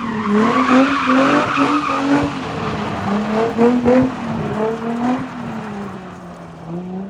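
A car drifting: the engine revs rise and fall again and again with the throttle, and the tyres skid with a hissing squeal for the first couple of seconds.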